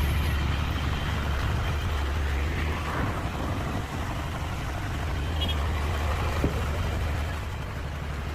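Engine of a Hyundai 5-ton truck idling steadily with a low, even rumble.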